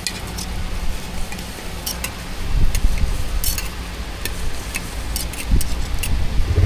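Metal cooking utensils clicking and clinking against a griddle, scattered sharp taps over a steady low rumble, with a couple of duller thumps.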